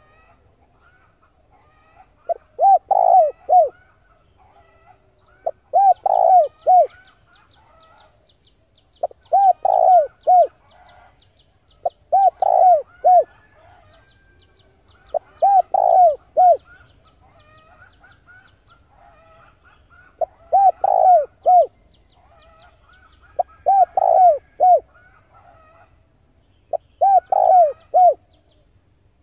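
Male spotted dove cooing: eight phrases of three or four coos, repeating about every three seconds with one longer pause about halfway through. Fainter chirps from other birds run between the phrases.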